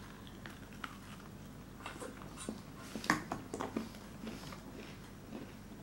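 Biting into and chewing a burnt, glazed oven-baked donut: faint scattered mouth clicks, busiest about three seconds in.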